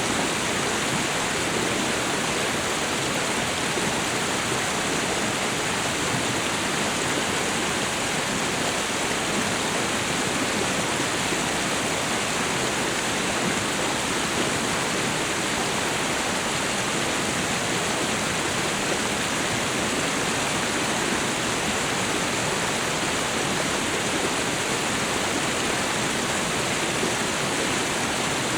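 Tropical waterfall and river water rushing, a steady, even roar with no breaks.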